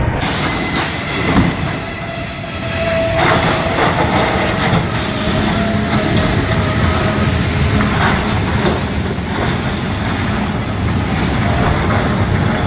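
Freight train cars rolling through a grade-crossing collision: a steady heavy rumble broken by several loud metal clanks, with a drawn-out high squeal of metal a few seconds in.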